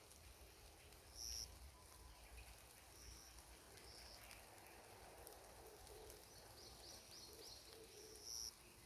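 Forest songbirds calling faintly: short high chirps every second or two, the loudest just over a second in and near the end, and a quick run of four falling notes about two thirds of the way through, over a faint low rumble.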